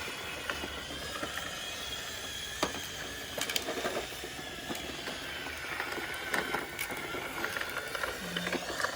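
Roomba 671 robot vacuum running on a driveway: a steady motor whir with scattered clicks as it sweeps up leaves and bits of tree debris.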